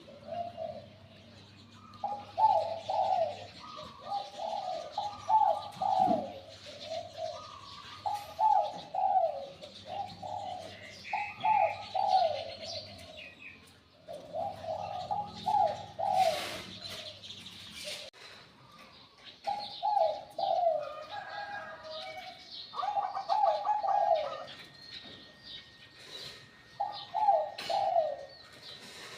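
Spotted dove of the Thai 'Liu Tan' voice type cooing over and over in short, high, sweet phrases, with small birds chirping faintly behind it.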